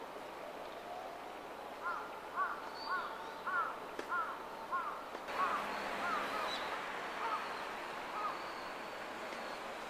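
A bird calling repeatedly, about a dozen short calls at a little under two a second, over a steady background hiss.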